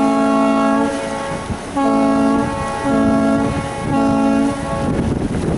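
Tour boat's horn sounding: a long blast that ends about a second in, then three short blasts, the signal that the boat is backing astern away from the dock.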